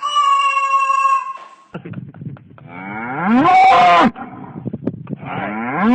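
Two loud, drawn-out livestock calls whose pitch rises and then falls, the second starting near the end. They are led in by about a second of a steady high tone.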